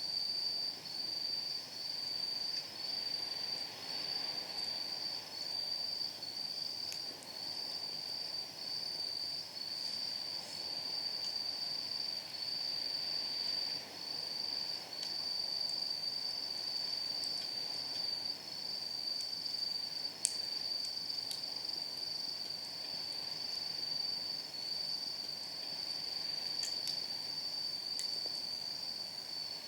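Night insects, crickets or similar, chirping in a steady high pulsing trill. Over it come a few sparse sharp pops of burning firewood, the loudest about 20 seconds in.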